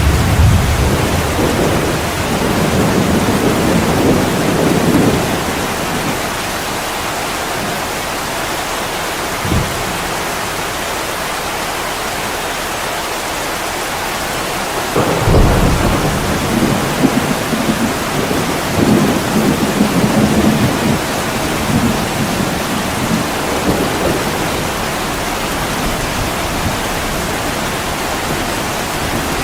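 Heavy rain pouring steadily on an attic window, with low rolling rumbles in the first few seconds and again past the middle, and a single short low thump about a third of the way in.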